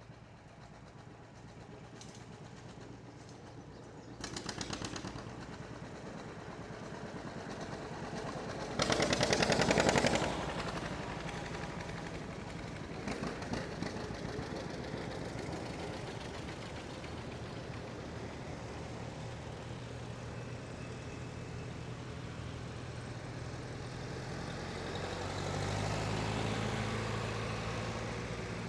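Old farm tractor engines running as tractors drive past, with a steady engine hum throughout. One passes loudest, with a rapid rattle, about nine seconds in, and another grows louder near the end.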